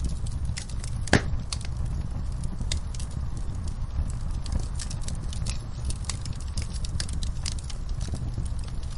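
Wood fire burning in a fireplace: a steady low rumble of flames with frequent sharp crackles and pops, one louder pop about a second in.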